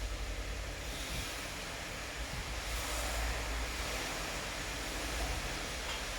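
Steady rainfall hissing, swelling slightly a few seconds in, over a constant low rumble.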